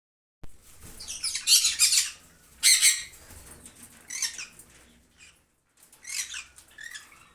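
Green-cheeked conure chicks (yellow-sided and pineapple mutations) squawking in short, harsh, raspy bursts. Several calls come through, the loudest about one to three seconds in.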